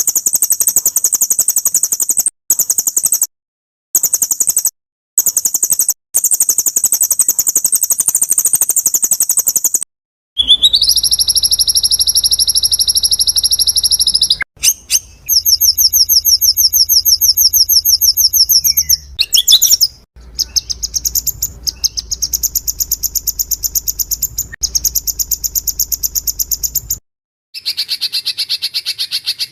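Masteran track of spliced songbird recordings: rapid, very high-pitched trills and rattling chatter. Several different clips are cut together with abrupt short silences between them, and a low hum runs under the middle clips.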